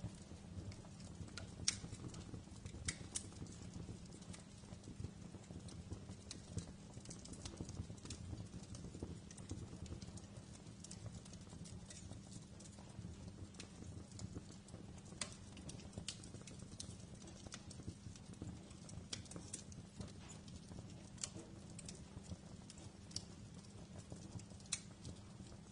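Fireplace fire crackling: irregular sharp pops and snaps, a few a second, over a low steady rumble.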